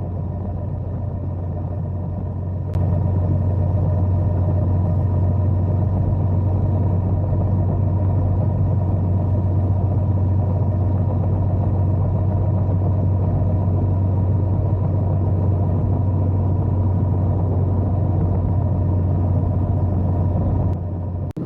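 Steady rumble of a motorcycle ride at constant speed, engine and wind noise without change in pitch. It gets louder about three seconds in and cuts off abruptly near the end.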